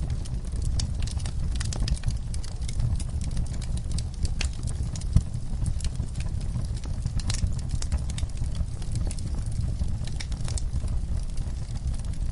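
Wood fire burning in a fireplace: irregular sharp crackles and pops over a steady low rumble of the flames, with one louder pop about five seconds in.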